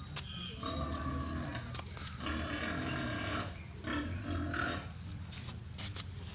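An animal calling in drawn-out, pitched cries: a long stretch of calls, then a shorter one about four seconds in.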